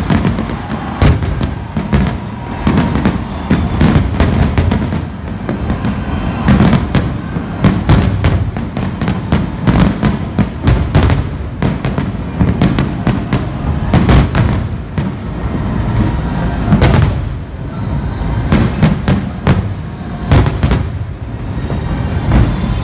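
Aerial fireworks display: a rapid, continuous barrage of shell bursts and bangs, several a second, over a steady low rumble.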